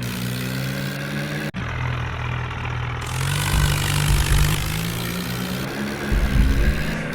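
Diesel tractor engines running hard under load in a tractor tug-of-war. The sound cuts out for a moment about a second and a half in, and there are heavy low rumbling surges in the middle and near the end.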